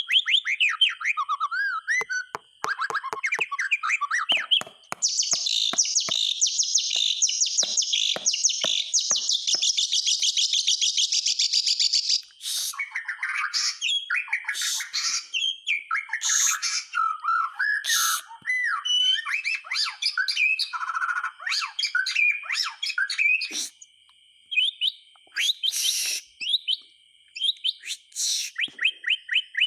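White-rumped shama (murai batu) singing a long, varied song: falling whistled notes and sharp clicks, then a dense rapid trill lasting about seven seconds, then a string of whistled phrases and sharp notes.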